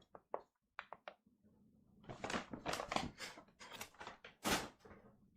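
A run of soft, irregular clicks and crackles, sparse at first and growing denser after about a second and a half.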